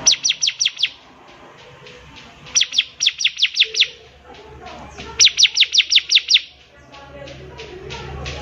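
A ciblek (bar-winged prinia) singing in a lively, full-voiced way: bursts of about seven quick, sharp notes, each falling in pitch, repeated every two and a half seconds or so.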